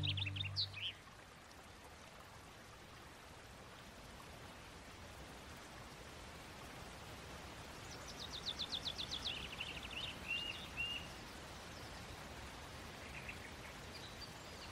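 Faint steady watery hiss like a stream, with a songbird's rapid trill that falls in pitch about eight seconds in, followed by a few short chirps; a held music chord fades out in the first second.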